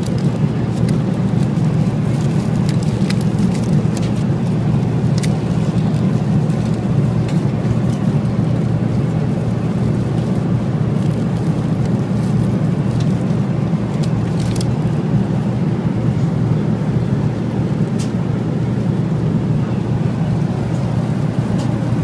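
Steady, loud low roar of a Boeing 777 passenger cabin in flight, with a few faint clicks scattered over it.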